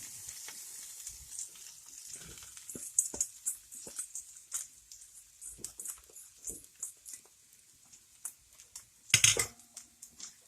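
Spoon stirring and scraping in a frying pan, mixing damp flattened rice flakes (poha) into the tempering, with irregular small clicks and a faint sizzle that fades in the first couple of seconds. A louder clatter comes about nine seconds in.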